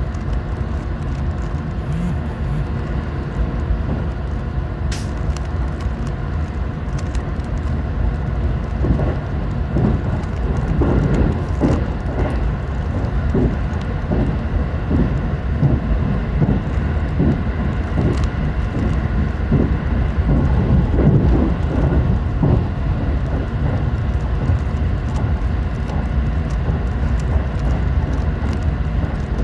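Cabin noise of a moving JR Central 313 series electric train, a steady low rumble that swells in the middle. Over it, the plastic clicking of a Rubik's cube being turned close to the microphone.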